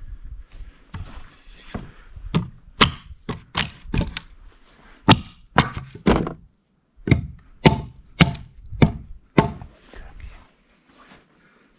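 A quick series of sharp knocks on wood, about sixteen blows at roughly two a second, with a short break midway.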